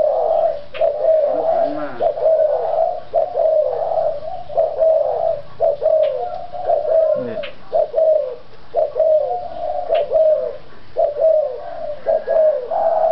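Doves cooing in quick succession: short, wavering coos repeated one after another with brief pauses between them.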